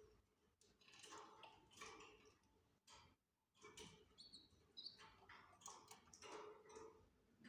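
Faint, brief high chirps from canaries near the middle, amid soft irregular clicking and rustling.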